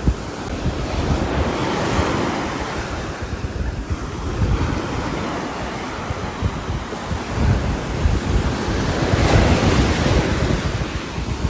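Rain ambience: a steady rushing noise with a deep rumble underneath, swelling louder about two seconds in and again near the end.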